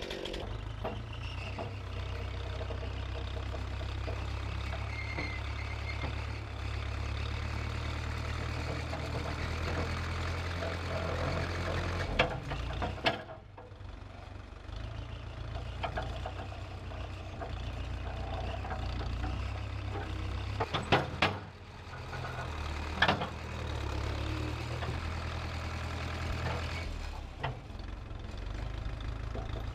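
1968 Case backhoe's engine running steadily, dipping briefly twice, with a few sharp clunks near the middle.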